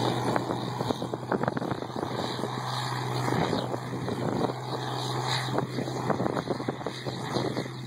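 Case IH 1680 combine running steadily under load while harvesting soybeans: a constant engine hum with irregular crackling and ticking over it.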